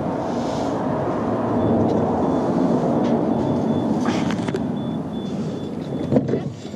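A vehicle engine running steadily, with a sharp knock about six seconds in.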